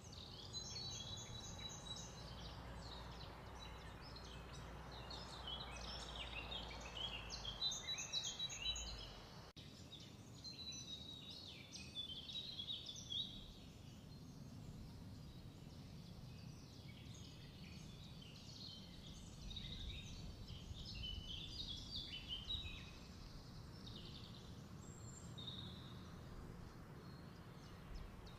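Small birds chirping busily in many short, high calls over a low steady background hum.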